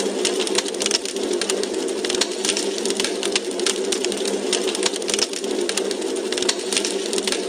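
Wood fire in a fireplace crackling: dense, irregular snaps and pops over a steady hiss.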